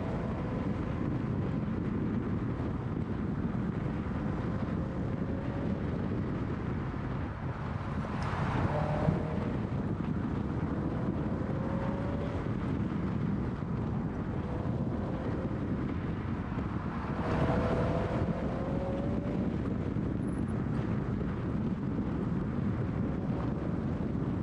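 A Scion FR-S's flat-four engine running under load on a twisty road, its pitch rising several times as it accelerates, with brief louder surges about eight and seventeen seconds in. Heavy wind buffeting on an outside-mounted microphone and road noise sit under it throughout.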